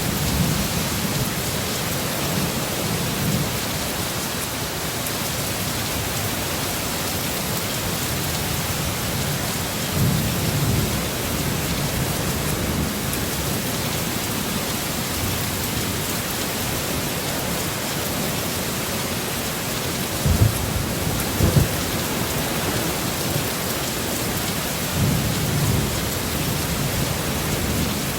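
Heavy storm rain falling steadily, with low rumbles swelling up a few times and two short, sharp low thumps about twenty seconds in.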